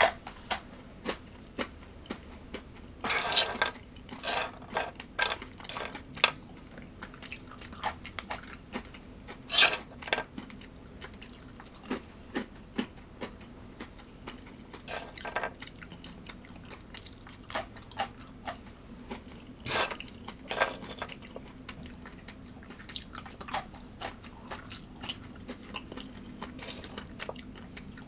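Someone chewing and biting food up close: a steady run of small wet mouth clicks and crisp crunches, with a few louder crunching bites about 3, 10, 15 and 20 seconds in.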